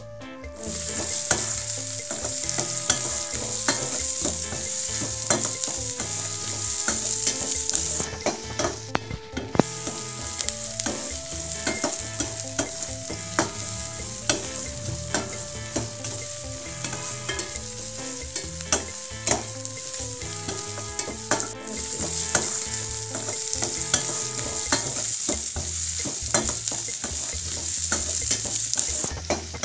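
Sliced onions, green chillies, dried red chillies and curry leaves sizzling in hot oil in a pan while being stirred, with frequent clicks and scrapes of the spatula against the pan. This is the tempering stage, the onions sautéing until soft.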